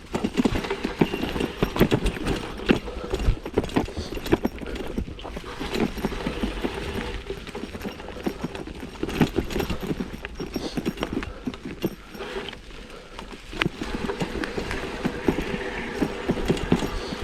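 1987 Specialized Stumpjumper mountain bike rattling and clattering over a rough dirt trail. Dense, irregular knocks and clicks run over a steady rumble from the tyres.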